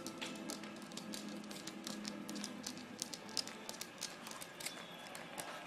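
Irregular light clicks and rattles of a plastic Temptations treat-dispenser toy with cat treats inside, knocked and rolled about by a cat.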